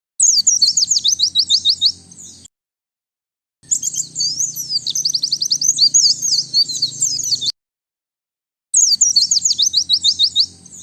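White-eye (pleci) singing: three phrases of fast, high twittering made of quick falling notes. Each phrase breaks off into dead silence, as in an edited, noise-cleaned tutor recording.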